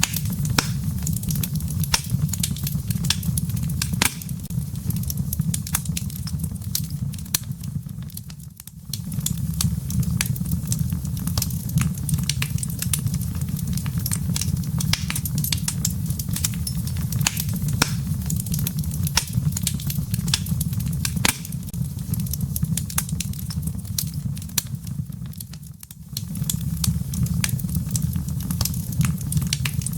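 Wood logs burning in a fireplace: a steady low rumble of flame with frequent sharp crackles and pops. The whole sound briefly fades down and back up twice.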